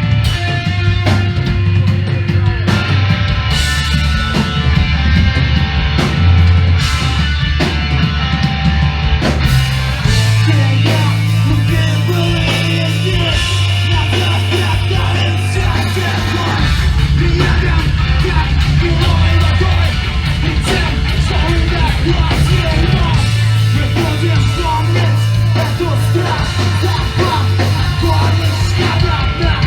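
Live punk/hardcore band playing loud: distorted guitars, bass and drums, with yelled vocals.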